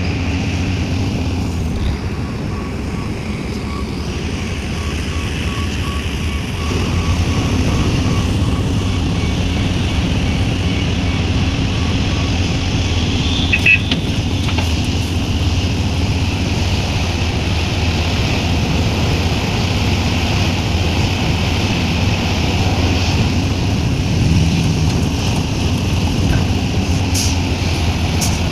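Heavy diesel engine of a Sumitomo SH350 excavator running steadily under load while it digs and loads soil into a dump truck; it grows louder about six seconds in. A faint series of short beeps sounds from about two to nine seconds in, and there is a single sharp knock about fourteen seconds in.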